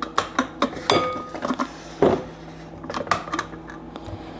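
Dishes and cutlery clattering as tea things are handled: a run of clicks and knocks, one about a second in ringing briefly like a cup or spoon struck.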